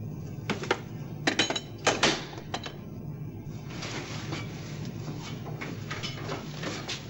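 Steady low machinery hum, with a handful of sharp clicks and knocks in the first few seconds and a hissing noise from about halfway in.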